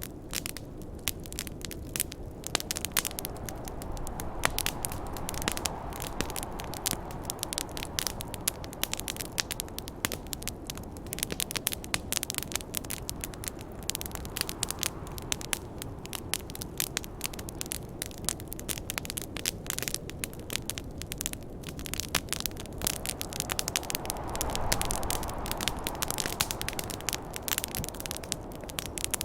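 Wood fire crackling with many sharp pops, over a steady rush of snowstorm wind that swells twice, about five seconds in and again near the end.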